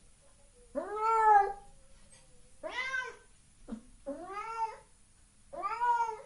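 A domestic cat meowing four times, each meow rising and then falling in pitch.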